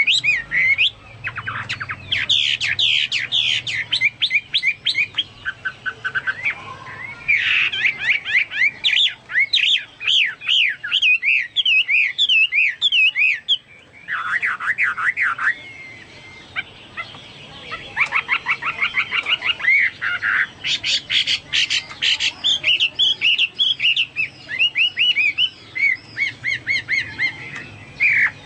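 Chinese hwamei singing a long, varied song of rapid repeated whistled notes, up-and-down slurs and fast trills, broken by a few short pauses; the song resembles that of a cucak Papua or cucak mas.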